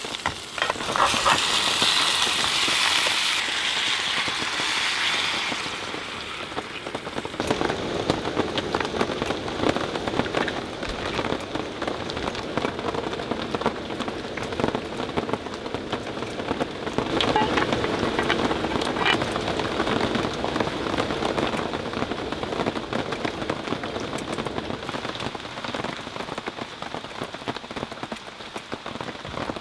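Steady rain, a dense patter of drops on a surface, after a brighter hiss in the first five seconds or so.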